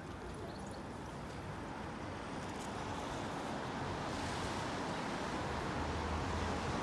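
City traffic noise: a steady rush of road noise that grows steadily louder, as of a vehicle approaching, with a low hum coming in near the end. Two light clicks sound in the first second.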